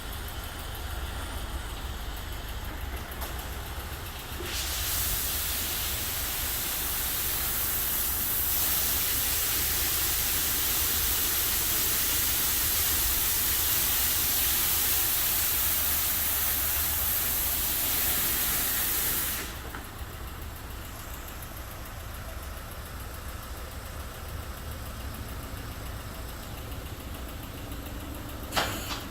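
Belanger FreeStyler automatic car wash spraying water: a loud hiss of spray starts about four seconds in and cuts off sharply some fifteen seconds later. A steady low hum runs underneath, and there is one sharp click near the end.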